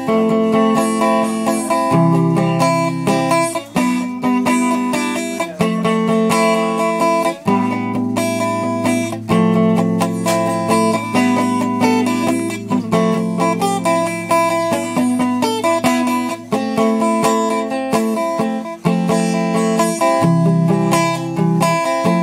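Fender Stratocaster electric guitar played solo: strummed chords and picked notes, changing every second or two, with one low bass note ringing under the chords through the middle stretch.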